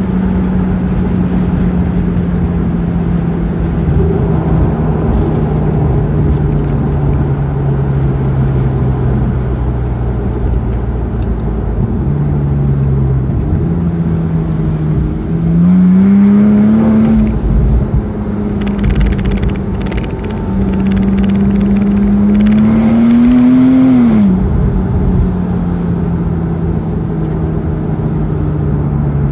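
Car engine and road noise heard from inside the cabin. The engine note falls slowly as the car slows, then climbs twice as it accelerates, dropping back sharply between climbs, as at a gear change.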